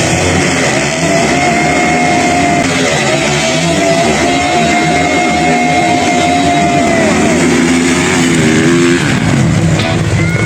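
Motocross dirt bike engines running hard at steady high revs, one held high for several seconds before easing off near the end, with other bikes' engines rising and falling beneath. Music plays along with them.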